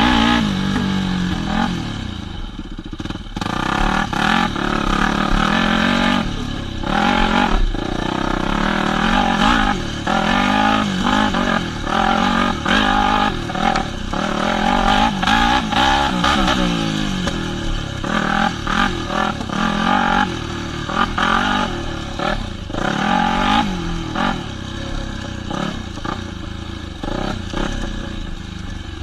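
Yamaha WR250F's single-cylinder four-stroke engine revving up and down again and again as the dirt bike is ridden through tight single track, with a few sharp knocks along the way.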